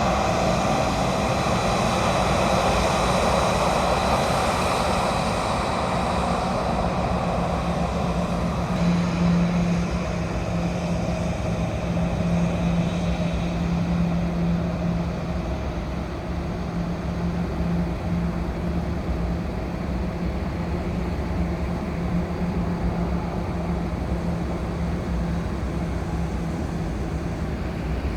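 Jet airliner engine noise fading away over the first several seconds, leaving a steady low hum underneath.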